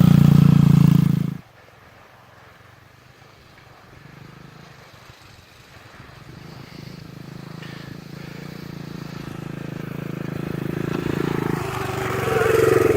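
Irbis TTR 110 pit bike's small single-cylinder four-stroke engine running loud, then dropping away suddenly about a second and a half in. After that the engine is faint and grows steadily louder toward the end.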